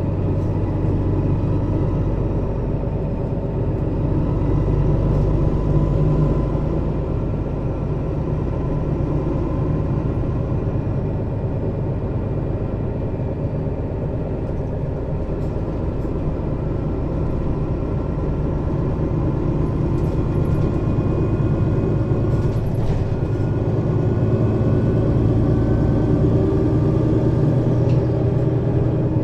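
Mercedes-Benz Citaro bus's diesel engine and ZF Ecomat 2 6HP-592 C automatic gearbox heard from above the engine while driving. The engine pulls steadily, its revs slowly rising and falling, with a faint whine over the low engine note.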